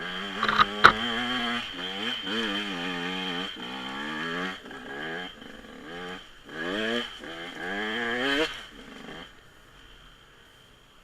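Small dirt bike engine revving in repeated bursts, its pitch rising and falling unevenly, with two sharp clicks near the start; it stops about nine seconds in.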